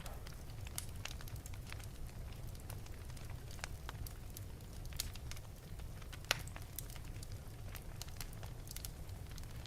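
Wood fire burning in an open fireplace, crackling with frequent irregular pops and snaps over a steady low rumble; one sharper pop about six seconds in.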